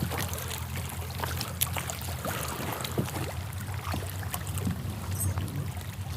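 Water lapping and trickling against a kayak hull, with a steady low rumble underneath and a few light ticks.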